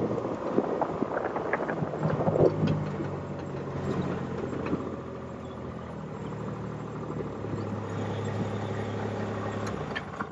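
A motor vehicle engine running at low speed, its pitch shifting a few times.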